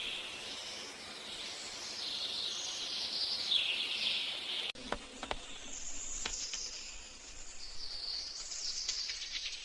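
Nature ambience of chirping birds and insects, with the recording changing abruptly about five seconds in.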